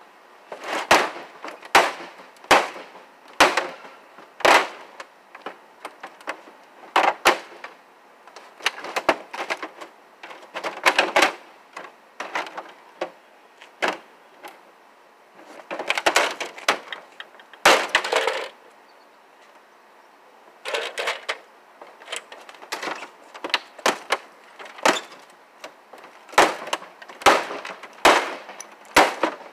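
Flatscreen TV being torn apart: repeated sharp cracks and snaps of its casing and parts breaking, coming in irregular bursts with short pauses.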